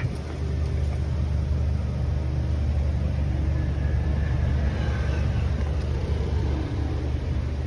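Steady low mechanical hum, like an engine or motor running.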